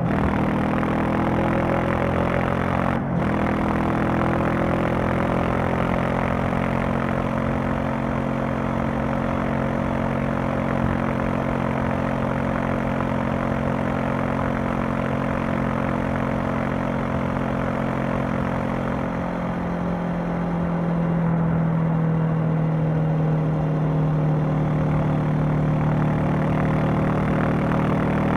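Honda CB500X's 471 cc parallel-twin engine and exhaust running steadily under way, with a short sharp click about three seconds in. About two-thirds of the way through the engine note falls and settles at a lower, steady pitch.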